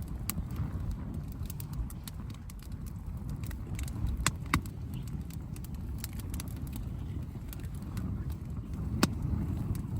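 Campfire crackling, with irregular sharp pops from the burning wood, a louder pair about four seconds in and another near the end, over a steady low rumble.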